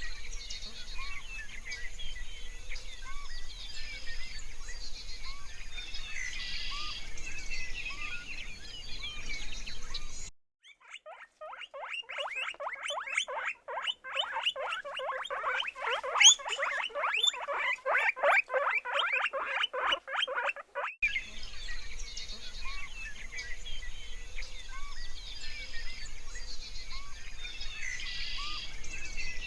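Soft outdoor background with scattered small bird-like chirps. About ten seconds in it cuts to roughly ten seconds of a rapid run of short, falling animal calls, several a second. Then it cuts back to the chirping background.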